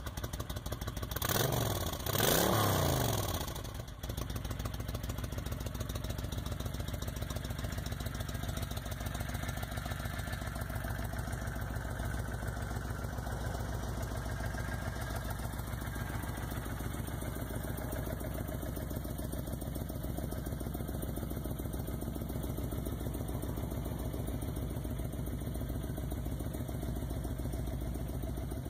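Motorcycle engine revved up and back down a couple of times, then settling about four seconds in into a steady idle.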